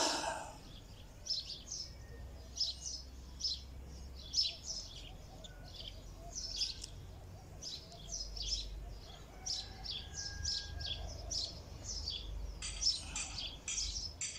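Small birds chirping in the trees, short high chirps coming about twice a second, over a faint low rumble.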